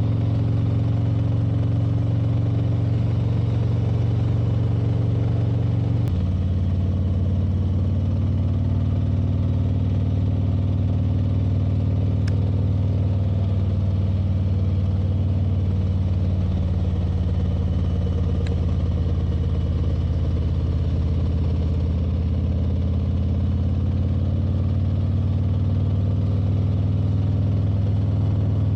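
Motorcycle engine running steadily on the road, its note stepping down about six seconds in and then rising and falling gently with the throttle.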